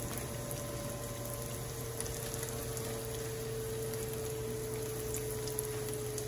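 Breaded snakehead bites frying in shallow oil in a nonstick pan: a steady sizzle with faint scattered pops.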